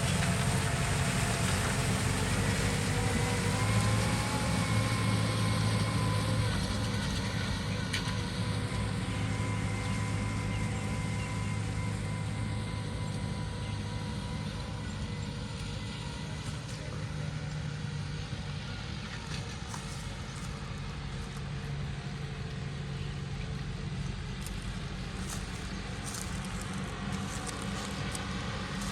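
Tractor engine running steadily, its pitch rising slightly about four seconds in, then growing a little quieter.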